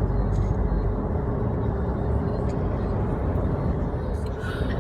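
Heavy truck traffic on a highway: a steady low engine and tyre rumble, with a faint steady tone over it.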